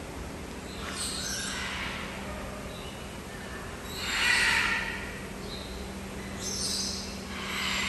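Birds in a tropical aviary calling with harsh, noisy squawks, four times, the loudest about four seconds in.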